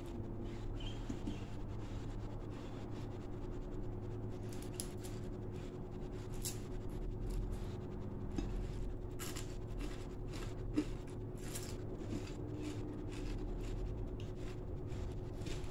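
Close-miked eating sounds: chewing of fried fish and rice with many short wet mouth clicks and smacks, over a steady low hum.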